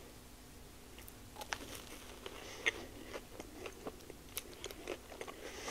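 Close-miked chewing of a mouthful of food: irregular soft wet smacks and small clicks, starting about a second and a half in.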